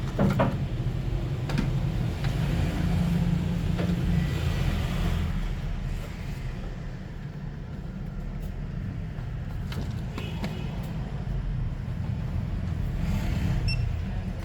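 Steady low rumble that swells and eases, with a few light clicks and taps scattered through it.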